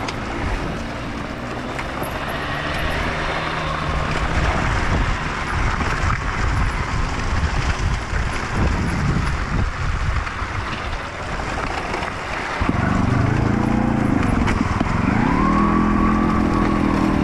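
Enduro dirt bike engine running over rough ground: low and steady under a rough noise at first, then revving up and down again and again from about two-thirds in.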